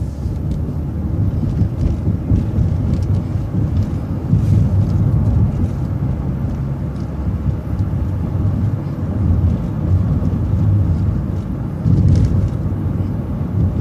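City transit bus driving along the road: a steady low rumble of engine and road noise that swells slightly now and then.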